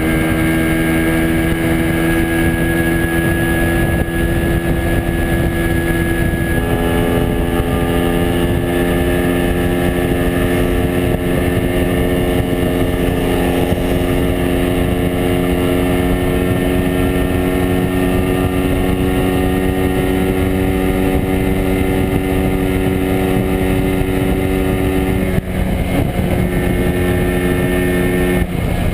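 Two-stroke single-cylinder engine of a 1967 Montesa Impala Comando 175 running steadily under way, its note creeping slowly higher. The note drops and breaks off briefly about 25 seconds in, then picks up again.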